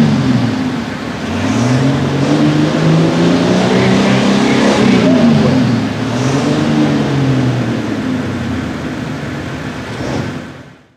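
Light super stock pulling tractor's engine running at high revs, its pitch dropping and climbing back up several times. The sound fades out near the end.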